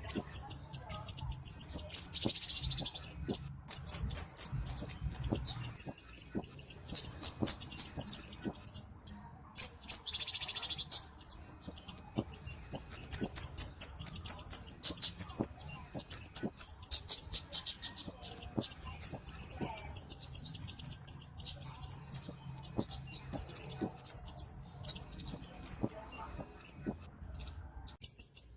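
Cabe-cabean flowerpecker calling: long runs of rapid, high, thin ticking notes, broken by a couple of short pauses. Two brief hissy bursts come about two and ten seconds in.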